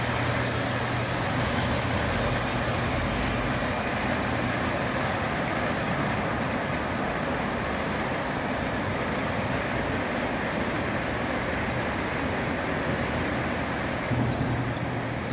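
Steady background noise with a low, constant hum and no distinct events.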